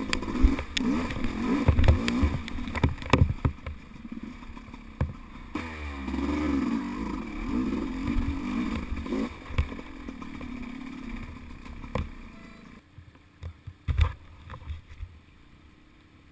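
Enduro motorcycle engine revving up and down, its pitch rising and falling, with scattered sharp knocks. It drops away about thirteen seconds in, leaving only a few thumps.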